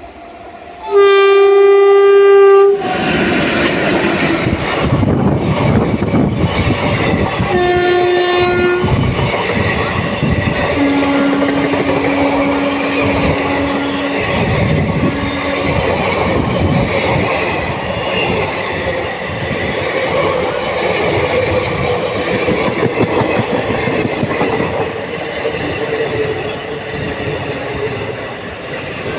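Train horn sounding loudly for about two seconds, followed by the continuous rumble and clatter of a train running on the rails. A second horn blast comes about 8 seconds in, then a lower steady tone of several seconds, broken once, around 11 to 15 seconds in.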